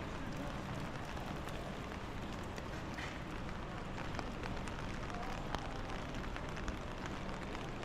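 Steady rain falling on a pedestrian street: an even hiss with many small scattered drop ticks.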